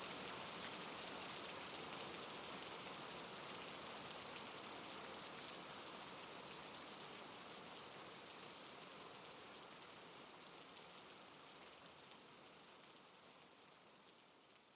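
Steady soft rain falling on a surface, a dense even patter that fades out gradually through to the end.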